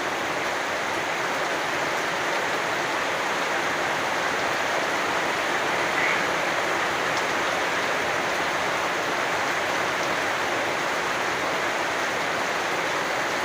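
Steady rain falling, with a single short frog call about six seconds in.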